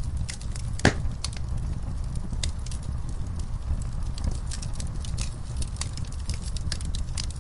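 Wood fire in a fireplace crackling, with a low steady rumble of flames under many irregular sharp crackles and one loud pop about a second in.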